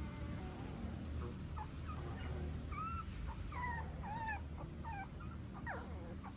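Puppies whimpering: a string of short, high squeaks starting about a second and a half in, over a steady low hum.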